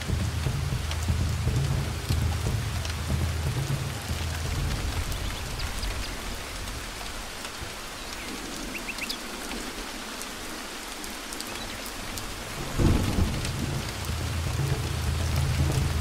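Heavy rain falling steadily, with deep rolling thunder that dies down midway and comes back with a sudden loud crack about thirteen seconds in.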